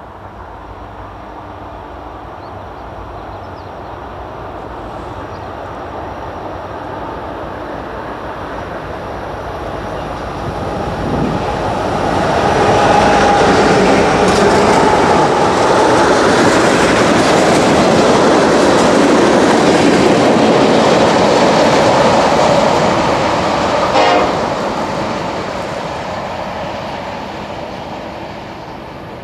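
A Union Pacific freight train led by an SD70ACe and an AC44CWCTE diesel-electric locomotive approaching and passing. It grows louder for about twelve seconds, stays loud with rolling rail clatter for about ten seconds, then fades away.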